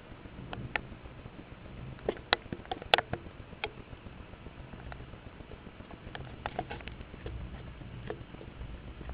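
Irregular raindrops tapping on a hard surface close by during a night thunderstorm, single sharp taps at uneven intervals with a sharper one about three seconds in, over a low steady rumble.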